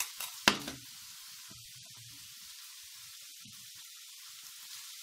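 A sharp metal clank about half a second in as the saucepan of shrimp broth is lifted. Then a steady faint sizzle of onion and red pepper frying in oil, with weak splashes of the broth being poured through a metal sieve into a bowl.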